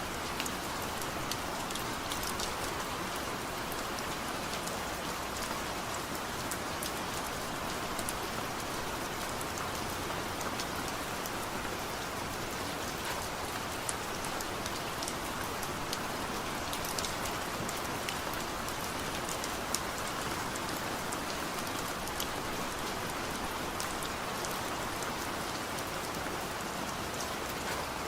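Heavy rain falling steadily on a surface, a dense even hiss with scattered sharp drop ticks.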